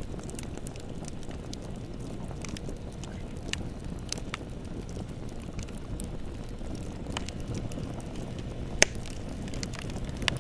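Wood bonfire burning: a steady low rush of flames with scattered crackles, and one sharp loud pop about nine seconds in.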